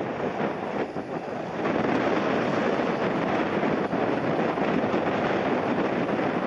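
Airliner engine noise on landing approach, growing louder about a second and a half in and then holding steady, mixed with strong wind buffeting the microphone.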